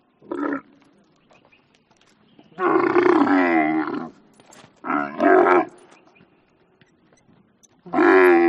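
Camel calling in four separate calls: a short one at the start, a longer one of about a second and a half, a broken double call, and another near the end.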